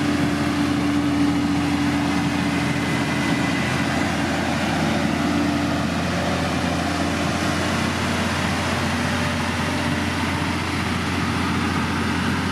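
Diesel engine of heavy road-building machinery, a motor grader or road roller, running steadily, with a higher engine note that fades about halfway through.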